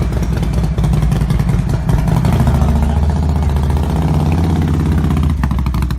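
Motorcycle engine running loud and close, with a steady, pulsing exhaust note that eases off slightly near the end.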